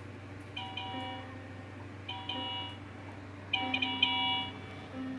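Electronic chime-like beeps from a LeapFrog children's toy laptop, three short tones evenly spaced about a second and a half apart, with a lower held tone under the last one and a faint steady hum.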